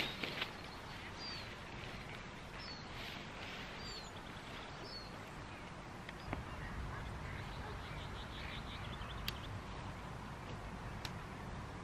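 Quiet outdoor ambience with several short, high bird chirps in the first five seconds and a few light clicks later on.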